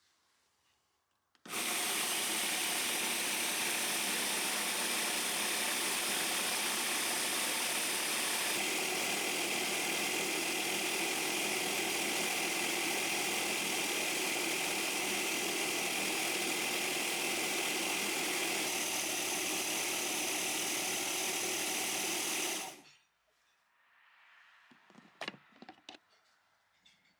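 A small electric machine running with a steady, even noise, switched on about a second and a half in and off again about 23 seconds in; its tone changes slightly about 9 seconds in.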